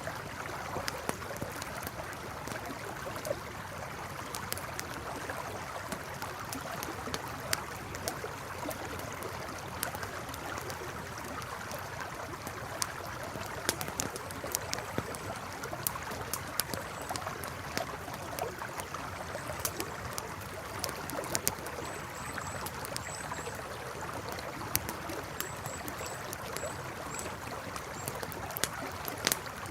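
A river flowing steadily, with a wood campfire crackling in sharp irregular pops throughout. Faint, short, high chirps come in groups in the second half.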